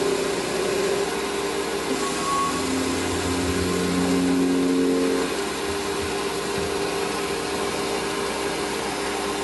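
Small metal lathe running steadily while it turns a part down to size, its motor hum shifting in pitch for a few seconds midway through.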